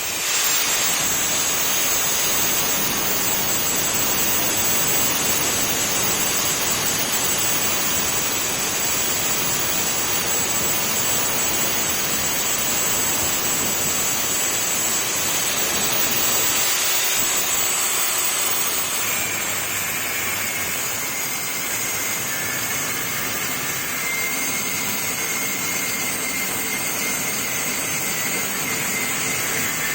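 Angle grinder running under load, grinding down a metal motorcycle exhaust hanger: a steady loud grinding hiss with a high whine, which shifts to a lower whine about two-thirds of the way through.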